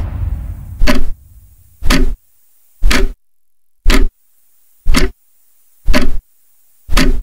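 Countdown sound effect: seven short, sharp ticks about one a second. It opens over the fading rumble of a boom.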